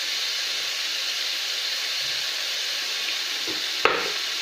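Diced pork frying in oil in a large frying pan: a steady sizzle, with a single sharp knock a little under four seconds in.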